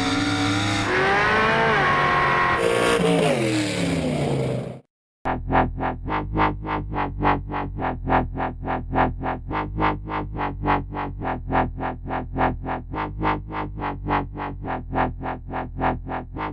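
A racing engine's note climbs and falls for about five seconds, then cuts off suddenly. After a brief gap, electronic background music starts, with a steady pulsing beat of about three pulses a second.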